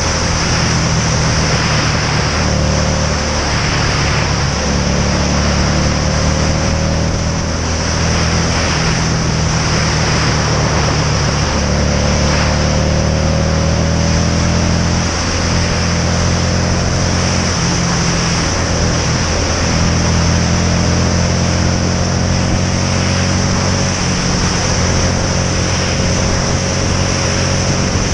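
Motorcycle engine running under way, its pitch rising slowly and dropping back several times, with steady wind rush over the helmet camera's microphone.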